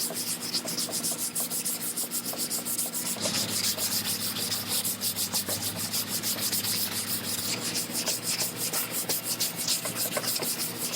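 Hand sanding on a car body panel: quick, rhythmic back-and-forth strokes of sandpaper on metal or filler, about four to five strokes a second, as the panel is prepared for primer.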